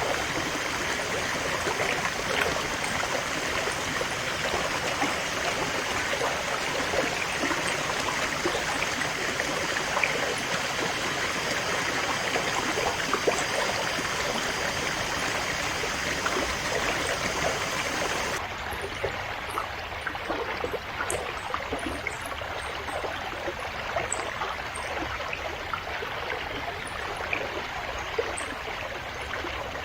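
River water flowing in a steady rush. About two-thirds of the way through, the sound changes abruptly to a slightly quieter, duller flow.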